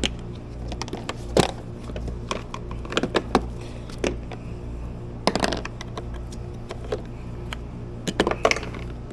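Scattered sharp clicks and knocks of parts being handled, a few clustered together, over a steady machine hum.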